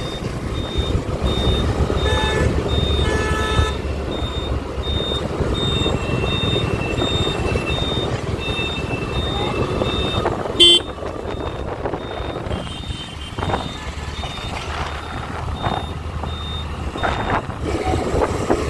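Road traffic heard from a moving vehicle: a steady engine and road rumble under a high electronic beep repeating about twice a second. Vehicle horns honk around two to three seconds in, and a short, loud horn blast comes a little before the midpoint.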